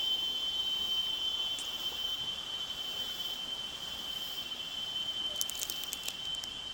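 Insects calling in a steady, unbroken high-pitched trill. A few sharp clicks come about five and a half seconds in.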